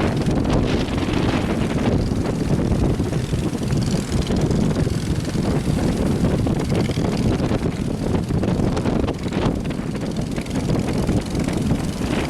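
Strong wind buffeting the microphone over a steady drone of boat engines.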